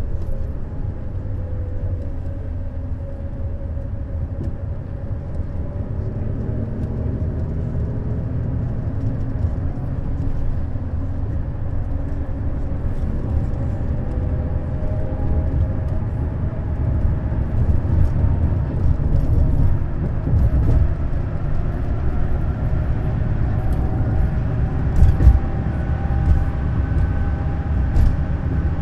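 Neoplan Skyliner N 1122/3C double-decker coach under way: a steady engine and road rumble. The engine note falls in the first few seconds, then slowly climbs. Two short knocks come near the end.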